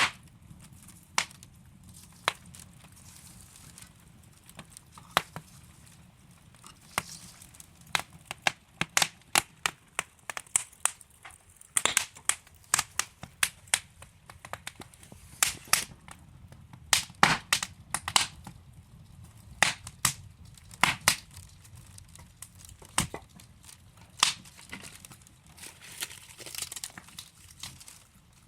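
Wood fire in a fireplace crackling: sharp pops and snaps over a faint hiss, sparse at first and coming thick and fast through the middle.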